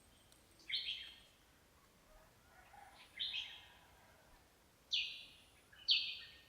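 A bird calling: four short, harsh, high chirps spaced a second or two apart.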